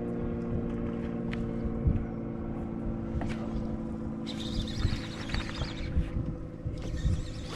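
Outboard motor of a bass boat running steadily, with wind buffeting the microphone; about halfway through a hiss of water joins in.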